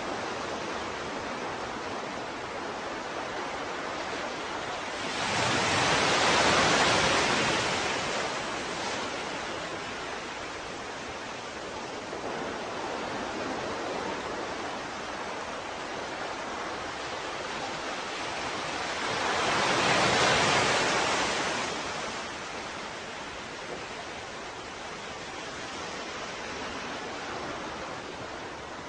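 Ocean waves breaking on a shore: two waves swell in, about five and nineteen seconds in, and wash out over a couple of seconds each, over a steady hiss of surf.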